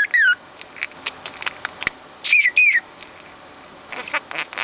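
Budgerigar chirping and whistling: a short falling whistle at the start, scattered soft clicks, two quick falling whistles about halfway through, and a burst of chattering near the end.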